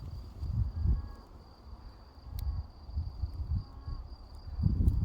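An insect singing one steady, unbroken high-pitched trill, under uneven gusts of wind rumbling on the microphone, which are louder.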